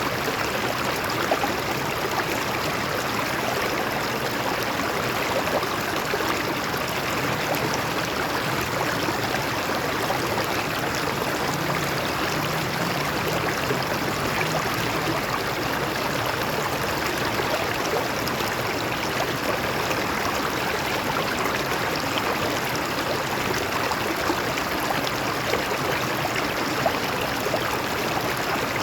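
Stream water flowing and splashing over rocks, a steady rushing with fine trickling detail.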